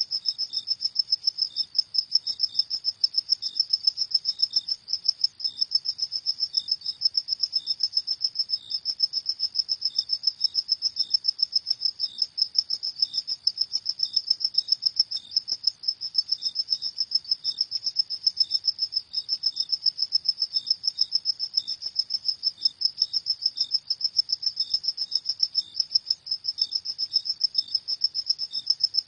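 Crickets chirping at night in a continuous, rapid, high-pitched pulsing trill. A fainter, slower, lower-pitched chirp repeats underneath.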